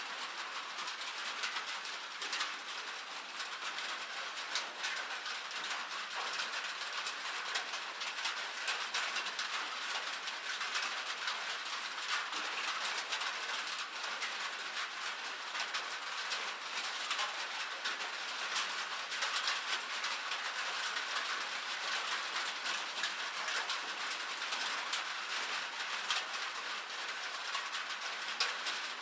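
Steady rain, countless small drops pattering in a dense, even crackle of fine ticks with almost no low rumble.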